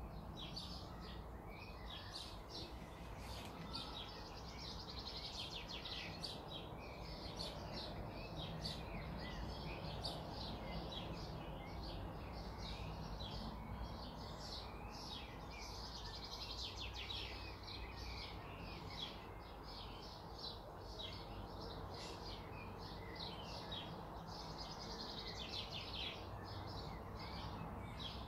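Birds chirping in the background, a dense run of short chirps all through, over a faint steady low hum.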